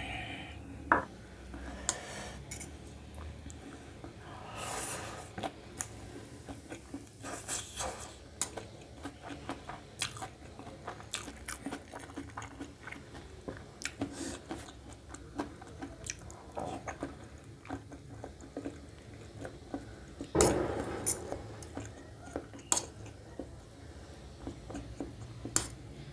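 Close-up eating sounds: a person chewing and biting into vegetable chow mein and boiled eggs, with scattered sharp clicks of a spoon and fork against a steel plate. A louder burst comes about twenty seconds in.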